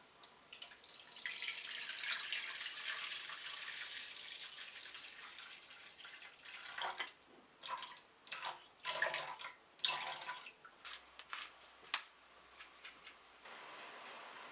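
Tap running into a sink in a steady stream for about six seconds, then water splashing in short, irregular bursts as something is rinsed under it; the sound cuts off abruptly near the end.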